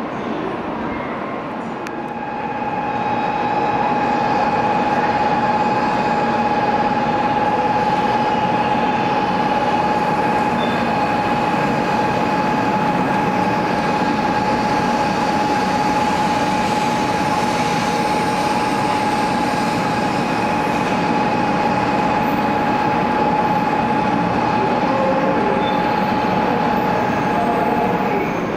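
Shinkansen bullet train pulling into the platform and running past alongside: a steady rushing rumble of the passing cars, louder from about two seconds in, with a steady high whine over it.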